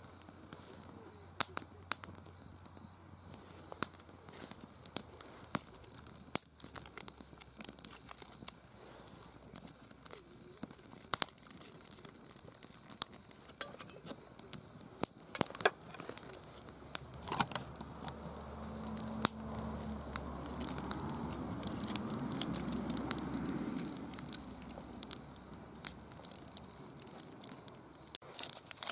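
Wood campfire crackling, with irregular sharp pops and snaps. A softer rushing swell builds a little past the middle and fades again.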